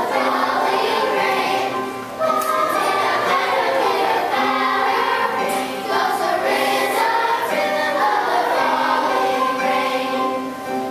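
Children's choir singing in unison with piano accompaniment, held notes changing every second or so, with a brief dip about two seconds in.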